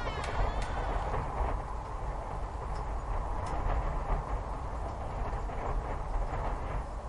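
Steady low rumbling ambience, a dark, noisy drone. In the first half second a falling, pitched call trails off.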